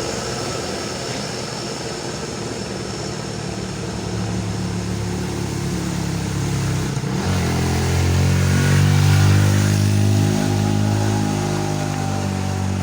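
Vehicle engines working hard up a steep climb. About seven seconds in, a louder engine comes close, holding a steady pitch, and is loudest around nine seconds before easing slightly.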